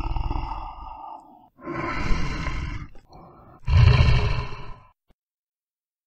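Deep, rough roars from a large animal, several in a row, the loudest about four seconds in. The sound then cuts off suddenly to silence.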